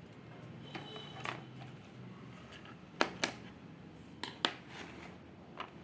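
Sharp wooden clicks and small snaps, about seven in all, as precut pieces of a wooden craft kit are popped out of their sheet and handled, with the loudest pair about three seconds in.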